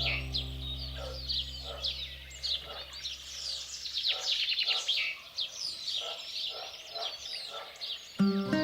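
Many small birds chirping, a busy run of short high chirps with no pause. Soft background music fades out over the first few seconds and comes back shortly before the end.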